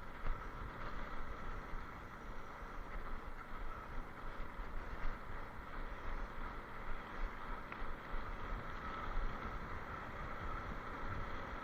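Steady wind rush on the microphone over a low rolling rumble, as heard while riding at speed.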